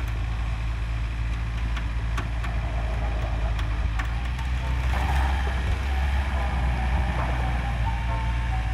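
Car engines running hard under load, with tyres spinning on snow, as a stuck Kia Sorento is pulled out of a ditch on a tow rope. The engine noise swells about five seconds in.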